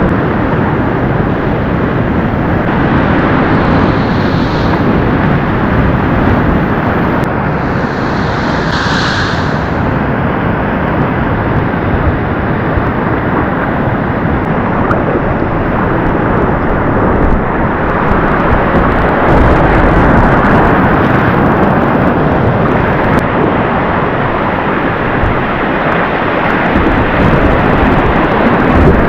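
Loud, steady rush of river whitewater around the kayak as it runs the rapids, with no break in the noise.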